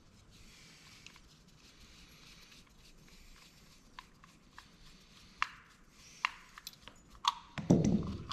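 Small parts of a dome security camera being handled during disassembly: scattered sharp clicks and taps of plastic and metal that get louder and closer together in the second half, with a dull bump near the end.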